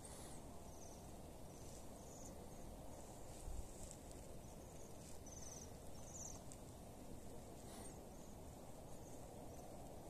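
High, thin trilling calls of small songbirds perched in a tree, short trills scattered through at irregular intervals. They sit over a steady low background rumble.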